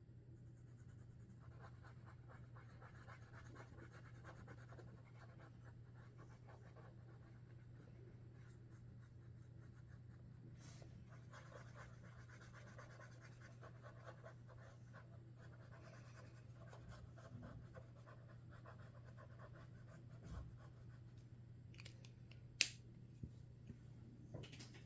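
Faint scratching of Sharpie Creative Marker tips drawn across paper in many short strokes, over a steady low hum. One sharp click near the end.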